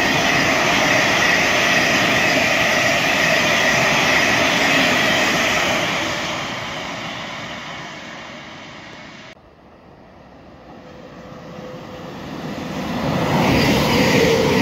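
A passenger train running through a station, steady and loud, then fading away over several seconds. After an abrupt drop, a second train approaches and grows louder until it rushes past close by near the end.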